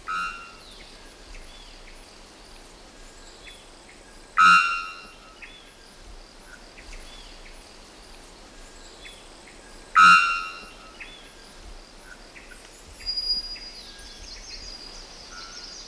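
Three-wattled bellbird calling: three loud, short, ringing calls about five seconds apart. Other forest birds and insects call faintly underneath.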